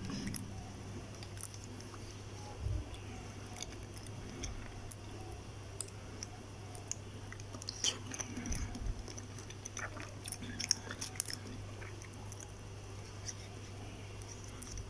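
A person eating a soft steamed egg cup with pork: quiet chewing and mouth sounds with scattered small clicks, over a steady low hum.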